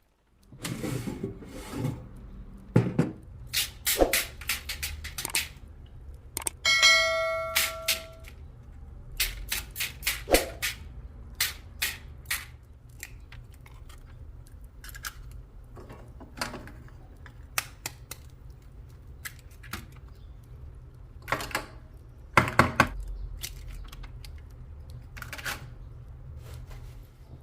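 Kitchen food-preparation sounds: a series of sharp knocks, taps and clatters of utensils and dishes, with one short metallic ringing tone about seven seconds in, over a steady low hum.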